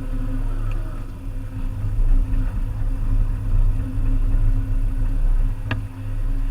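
Volvo EC300EL excavator's diesel engine running steadily under work, with one sharp knock near the end.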